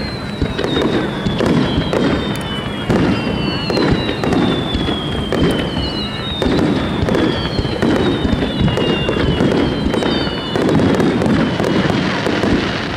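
Fireworks star-mine barrage: a rapid run of booming bursts, about one a second, with several high whistles sliding down in pitch over them.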